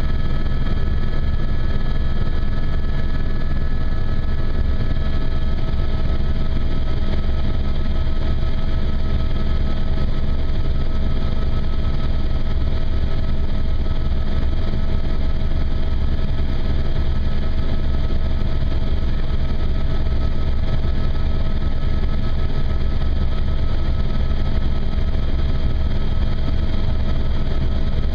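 Helicopter in flight: a steady, loud low drone of engine and rotor, with a constant high whine above it.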